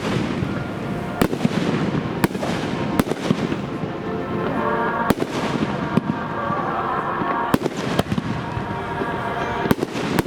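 Fireworks bursting overhead: sharp bangs about once a second over a continuous rumble of crackle and echo.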